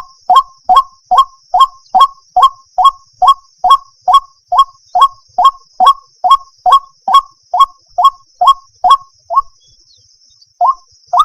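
White-breasted waterhen (ruak-ruak) calling: a fast, regular series of short, harsh two-pitched notes, about two and a half a second. The calls stop for about a second near the end, then start again.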